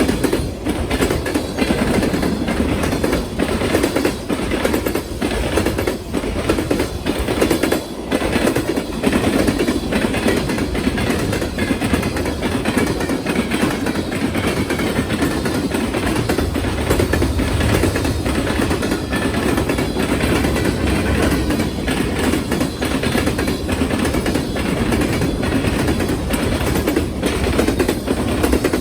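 Train rolling over a railroad diamond crossing, its wheels striking the crossing's rail gaps in a continuous rapid clatter of impacts over the steady rumble of the cars.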